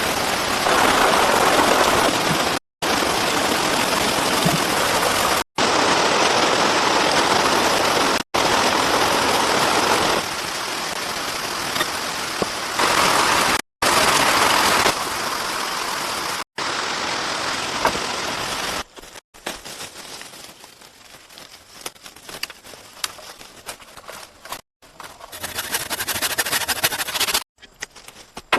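Heavy rain pouring, a loud even hiss in several short clips cut together. About two-thirds of the way through it falls to a quieter patter and crackle of drops, with one more loud stretch of rain near the end.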